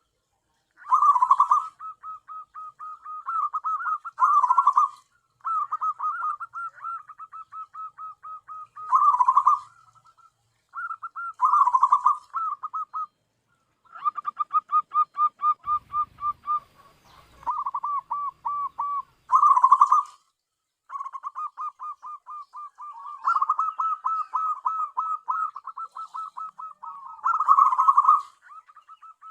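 Zebra dove (perkutut) cooing: long runs of quick pulsing coo notes, broken by short pauses, with louder, fuller clusters every few seconds.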